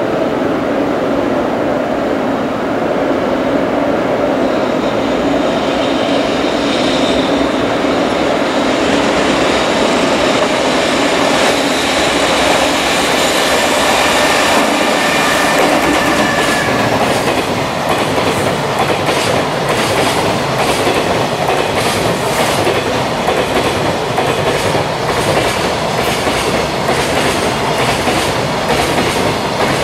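JR Freight EF210 electric locomotive approaching and passing at speed with a long container freight train. The wagons' wheels then keep up a steady, rhythmic clickety-clack over the rail joints as they go by.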